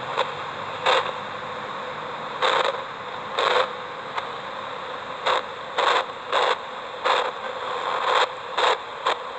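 Spirit box (ghost box radio scanner) sweeping through stations: a steady bed of static broken by about a dozen short, loud bursts of noise at uneven intervals. No clear voices come through.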